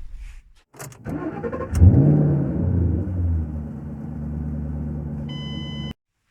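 Car engine cranked and started about a second in, revving briefly and then settling into a steady idle. A short beep comes near the end, and the sound then cuts off abruptly.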